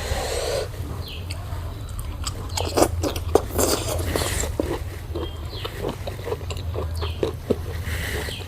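Close-miked eating: a run of crunching and chewing, with many short sharp crunches from about two and a half seconds in. A steady low hum sits underneath.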